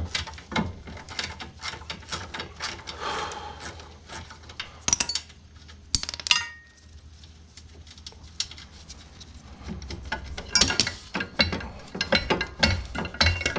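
Hand tools working a bolt on a mower's blower fan: scattered metallic clicks and a few ringing clinks of metal on metal, then a quieter pause, then a quick run of rapid ratchet-like clicking in the last few seconds.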